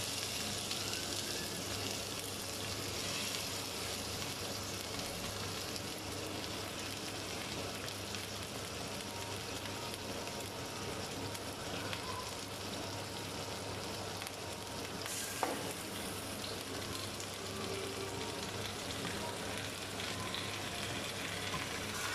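Raw chicken pieces sizzling in hot oil with sautéed onion and garlic in a stainless steel pot: a steady frying hiss. A single sharp tap sounds about two-thirds of the way through.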